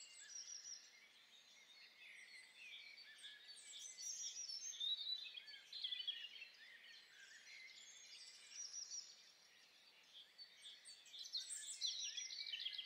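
Faint birdsong: small birds chirping in many short, high-pitched calls, busiest about four to six seconds in and again near the end.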